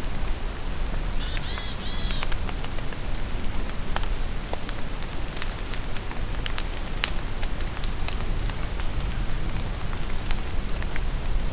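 Steady rain falling in a forest, with many sharp drips and a bird singing a short two-part phrase about a second in. Brief high chirps from other birds sound here and there.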